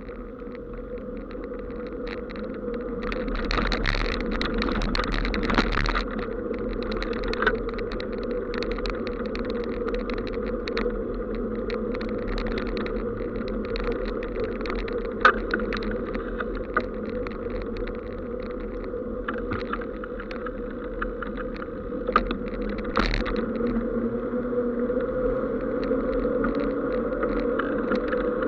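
Steady road noise from a vehicle moving along a wet road: tyre hiss and a constant drone, with a few short knocks from bumps in the road.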